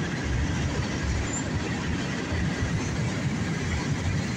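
Freight train cars rolling past, a steady rumble of steel wheels on rail.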